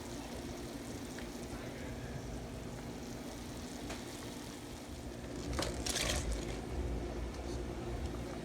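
Pot of water boiling on a stovetop, a steady low bubbling over a faint kitchen hum, with a brief louder hiss about six seconds in and a deeper rumble after it.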